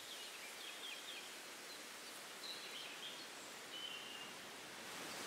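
Quiet riverside ambience with a few faint, short, high bird chirps scattered through it.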